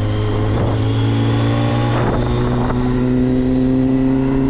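Honda CBR250RR (MC22) inline-four motorcycle engine running steadily, its pitch creeping slightly higher.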